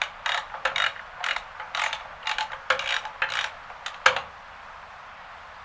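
Ratchet wrench clicking in short bursts, about two strokes a second, as it backs a loosened nut off an exhaust manifold stud. The last stroke, about four seconds in, is the loudest, then the clicking stops.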